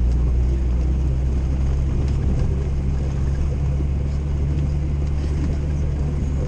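Old Jeep driving at low speed, heard inside the cabin as a steady low engine and road drone.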